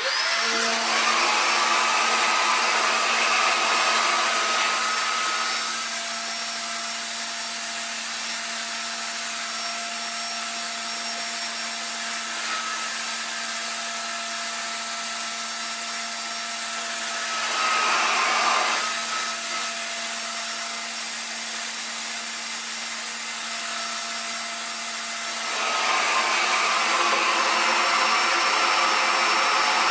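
RevAir reverse hair dryer running steadily, a continuous airy fan noise with a steady hum, switched on at the very start. It gets louder for the first few seconds, briefly around eighteen seconds in, and again for the last few seconds.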